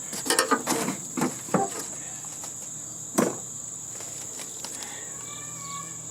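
A steady high chirring of crickets runs under sharp knocks and rattles of sheet-metal parts of the heating and air-conditioning unit being handled: a quick cluster in the first second or so and one loud knock about three seconds in.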